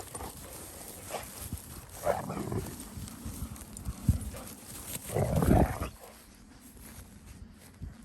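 Dalmatians vocalising while they interact in play, in two louder bursts about two seconds in and about five seconds in, with a single sharp knock in between.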